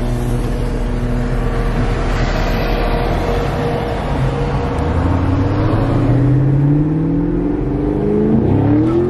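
Car engine heard from inside the cabin, running steady at first and then rising in pitch as the car accelerates, with a brief dip in pitch near the end, over road and wind noise.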